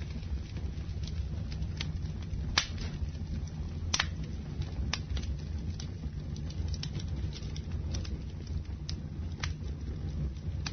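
Campfire burning: a steady low rush from the flames with irregular sharp crackles and pops of burning wood, the loudest about two and a half and four seconds in.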